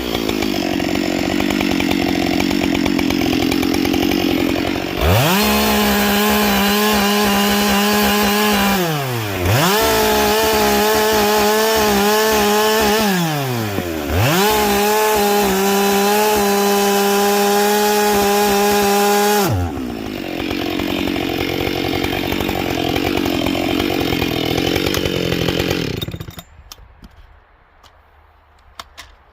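Husqvarna 572 XP two-stroke chainsaw fitted with a carbide chain, cutting wood at full throttle. Its pitch drops under load in the cuts and rises to a steady high note when the chain runs free between them. About 26 seconds in, the engine noise falls away, leaving a few light knocks.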